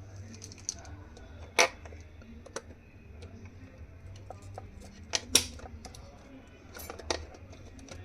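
Scattered small clicks and taps of tools and wires being handled on a mixer grinder's plastic housing while its motor wires are desoldered, with a louder knock about one and a half seconds in and two more just past five seconds.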